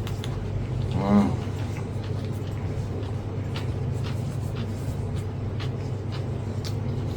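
Eating sounds, with small chewing and utensil clicks, over a steady low hum. A short voiced sound comes about a second in.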